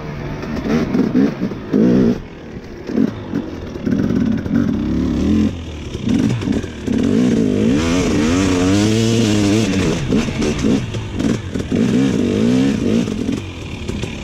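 Dirt bike engine revving hard under load on a hill climb, its pitch rising and falling over and over with brief drops off the throttle.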